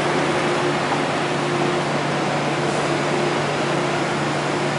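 Steady rumble and hum of a first-generation MTR electric train, with two low tones held constant underneath.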